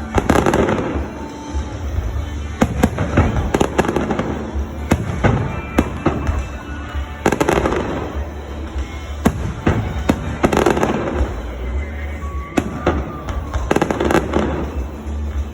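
Aerial fireworks bursting in a show: sharp bangs every couple of seconds, each trailing off with an echo, with crackling between them.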